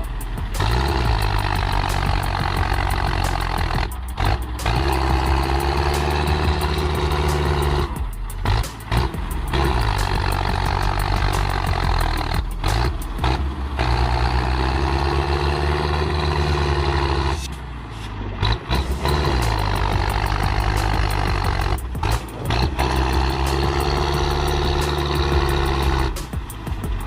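Tractor diesel engines labouring under heavy load, as they try to pull a tractor out of deep mud. The engine pitch swells up and sags back repeatedly, with several abrupt cuts between shots.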